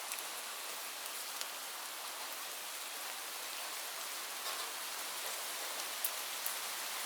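Steady rain falling, an even hiss with scattered sharp drips ticking through it.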